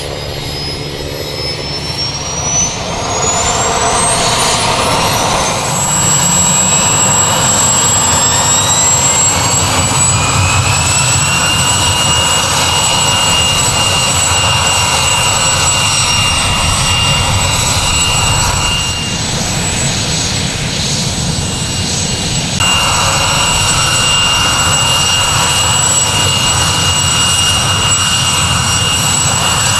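Sikorsky S-64 Skycrane's twin turboshaft engines whining, the high whine rising in pitch over the first several seconds as the turbines spool up, then holding steady. The sound dips for a few seconds past the midpoint and comes back.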